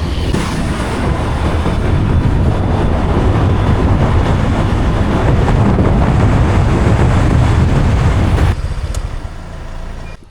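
Riding a motor scooter: wind buffeting the microphone over the running engine and road noise, a steady rush heavy in the low end. The noise drops sharply about eight and a half seconds in.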